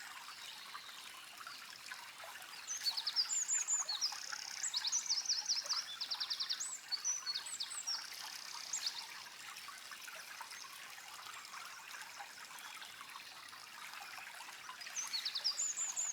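A small songbird singing a long, fast, high phrase of quick notes and trills, then starting again near the end, over a steady background hiss.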